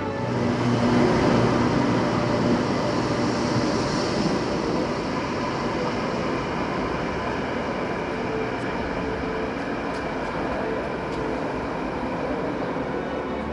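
Electric light-rail train running close past the platform: a steady rushing rail noise, loudest a second or two in, then settling to an even level.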